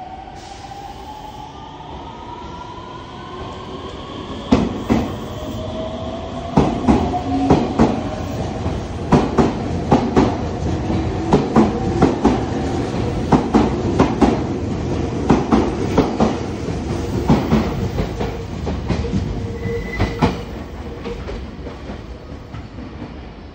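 Meitetsu 3100 series electric train departing: the motor whine rises in pitch as it pulls away, then the wheels clack over rail joints in quick groups as the cars pass, thinning out and fading near the end.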